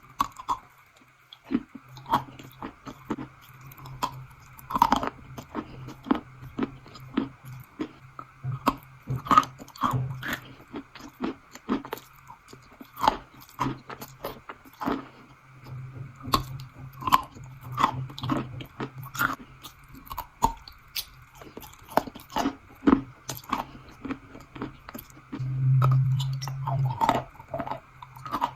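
A person biting and chewing crunchy strawberry crunch food close to the microphone, with many crisp, irregular crunches. A low steady hum sits underneath and swells briefly near the end.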